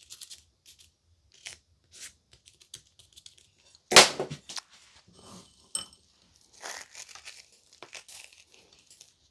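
Crushed biscuit crumbs being handled and pressed onto buttercream: scattered short rustles and clicks, with one loud knock about four seconds in.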